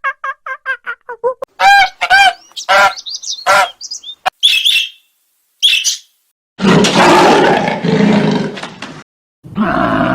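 A string of separate animal calls, mostly birds: a rapid run of short chirps, then several louder bird calls, then a rough, noisy call for about two seconds. A horse starts to whinny near the end.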